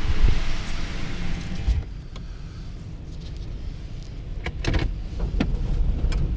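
Storm-force wind gusts buffeting with a heavy low rumble. For the first couple of seconds there is the hiss of blown grit, then a few sharp clicks of small rocks striking about two-thirds of the way in.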